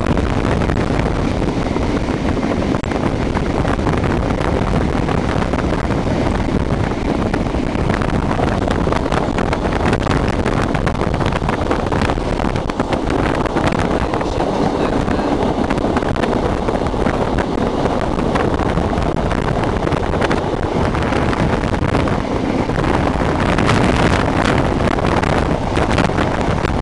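Steady running noise of a moving passenger train heard from inside the carriage: the rumble of wheels on the rails, with wind noise on the microphone and scattered short clicks and rattles.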